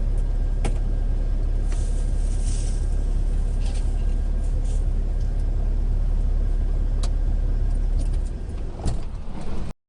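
Steady low rumble of a moving vehicle heard through a dashcam, with a few sharp knocks. The rumble eases off near the end, then comes a thump, and the sound cuts off suddenly.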